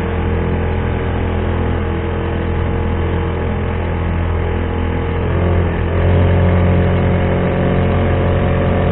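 Honda GX35 35cc four-stroke engine on a kayak's tiller mount running steadily under way. About six seconds in it is throttled up a little and runs slightly louder and higher-pitched.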